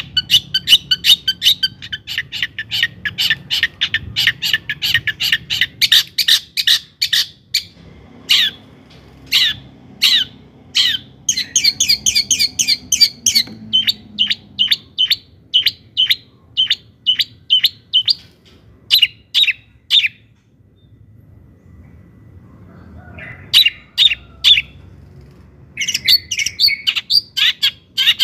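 Long-tailed shrike singing loudly: fast rattling runs of short, sharp, repeated notes, then slower strings of separate notes. The song breaks off for a few seconds after the middle and resumes in short bursts near the end.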